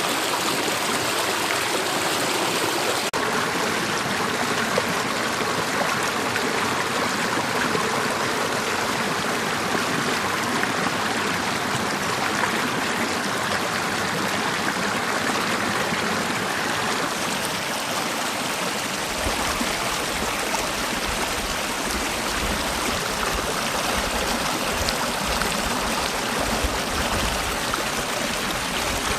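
Mountain valley stream rushing steadily over rocks, an even unbroken water noise. A low rumble joins underneath about two-thirds of the way in.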